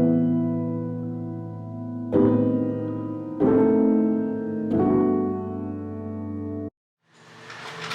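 Background piano music: slow, sustained chords struck every second or so and left to ring, cut off suddenly near the end.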